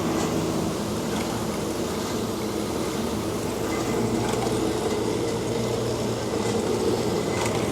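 DoAll C-916M horizontal band saw running steadily, its replacement electric motor giving a constant hum with the blade drive turning.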